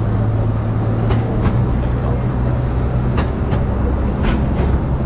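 Small forest-railway train running: a steady low drone with sharp clicks of wheels over rail joints, in pairs about a second in and about three seconds in, and once more near the end.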